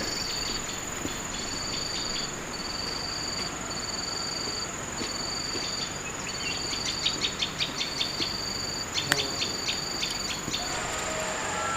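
Insects calling: short high trills repeated about once a second over a steady high-pitched whine. A run of quick ticks and one sharp click come in the second half.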